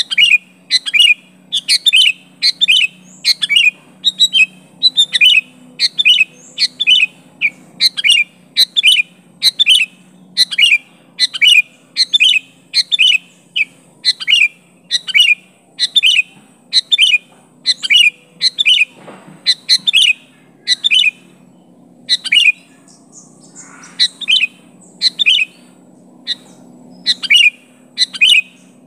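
Sooty-headed bulbul (kutilang) giving a short, sharp call over and over, about once a second, with a brief break about three-quarters of the way through. It is the bird's calling to a rival.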